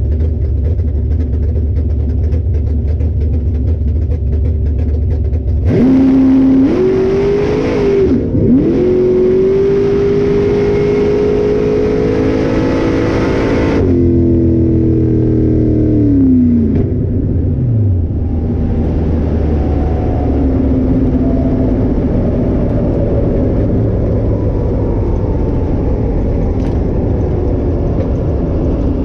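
Car engine making a drag-strip pass. It idles at first, then about six seconds in it launches to high revs, with a brief dip in pitch about two and a half seconds later like a gear change. It holds high revs for several seconds, then the revs fall away as the driver lifts off, and a lower steady engine sound follows.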